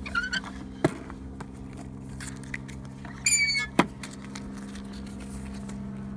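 Birds calling: short chirps at the start and a louder, harsher call about three seconds in, over a steady low hum. Two sharp clicks, one just under a second in and one near four seconds.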